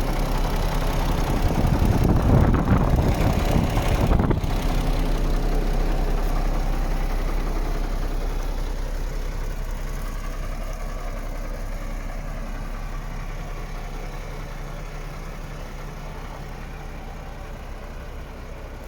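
Diesel engine of a MAN 26.460 TGX truck, a 12.4-litre straight-six, idling steadily. It is louder and rougher for a couple of seconds about two seconds in, then grows gradually fainter.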